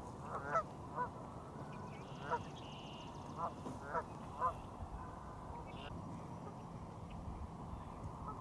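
Geese honking, about six short calls over the first five seconds, after which the calls stop.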